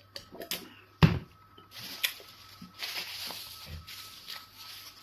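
Close-up eating sounds: soft clicks and squishes of mouth and fingers working eba with egusi soup, with one sharp thump about a second in and a soft hissing breath in the second half.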